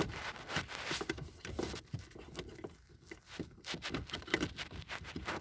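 Irregular rustling with light clicks and scrapes: hands fitting a handheld OBD2 scanner's cable plug into the diagnostic port under a car's dashboard.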